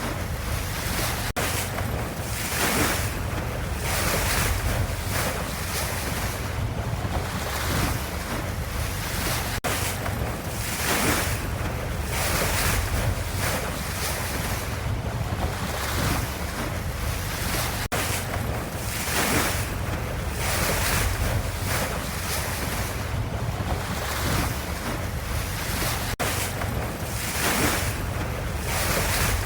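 Ocean waves, a steady rushing wash over a deep low rumble, swelling and easing every two seconds or so.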